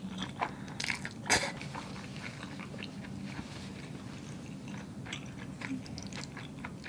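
Mouth sounds of someone chewing a mouthful of spaghetti: scattered soft clicks and smacks, the loudest a little over a second in.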